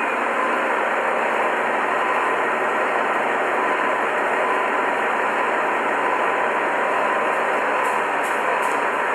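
Steady running noise of a machine tool in a machining shop, an even whirring hiss with a faint constant hum. A few faint light ticks come near the end.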